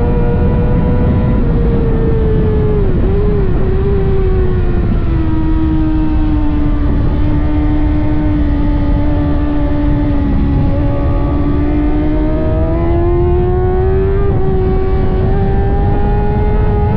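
Kawasaki ZX-6R 600cc-class inline-four racing engine running hard at high revs over heavy wind noise. Its pitch drops steadily for several seconds, as if the bike slows off the throttle into a corner, holds low, then climbs again as the rider accelerates out.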